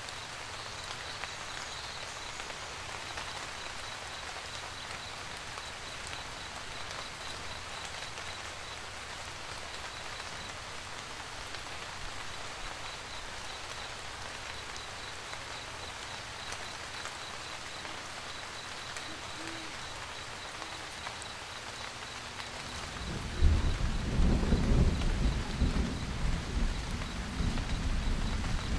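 Steady rain pattering. About 23 seconds in, a deep roll of thunder begins and rumbles on as the loudest sound.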